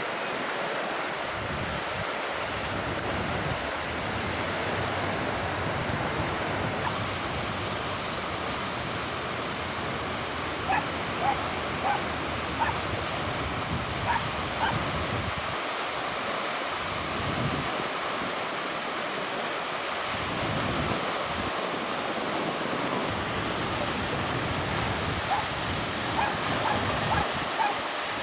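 Sea surf and wind rushing over a camcorder microphone. Two clusters of short, high calls stand out above it, one about halfway through and one near the end.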